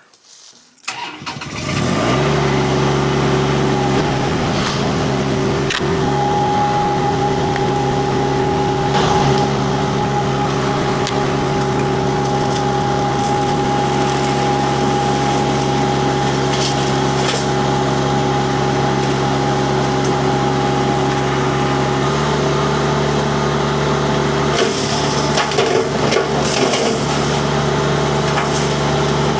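Rippa RS06 mini skid steer's Kubota diesel and its disc mulcher spinning up about a second in, then running steadily with a high steady whine from the spinning disc. Near the end, scattered sharp cracks come in as the mulcher starts biting into wood.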